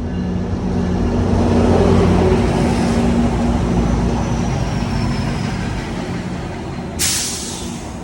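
Metrolink commuter train running into the station, its locomotive's engine hum and rolling noise swelling to a peak about two seconds in and then easing off. About seven seconds in, a sudden short burst of air hiss.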